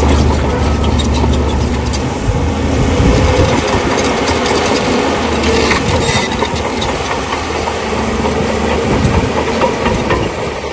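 Bulldozer's diesel engine working under load, with the clank of its steel tracks and the scrape and crunch of stones being pushed; many sharp knocks scattered through.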